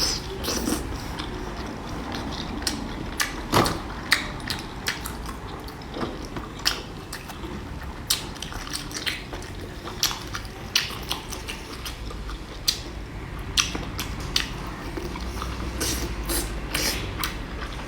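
Close-miked eating: irregular sharp crisp clicks and crunches of someone biting and chewing food, a few a second, over a low steady hum.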